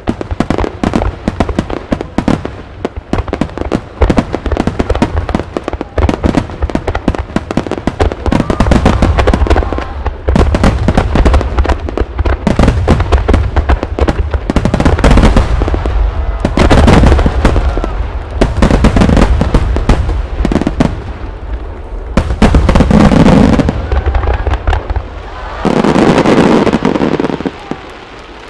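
Wide starmine fireworks barrage: many aerial shells launching and bursting in quick succession, with deep booms and crackle. It builds to its loudest volleys in the second half, then stops shortly before the end.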